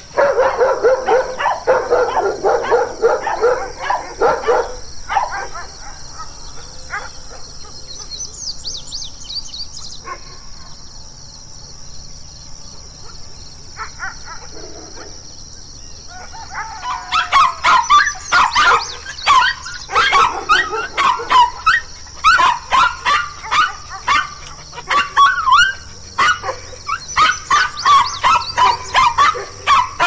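Dogs barking. A quick run of barks over the first few seconds, then a quieter stretch with only scattered barks, then fast, repeated barking through the second half.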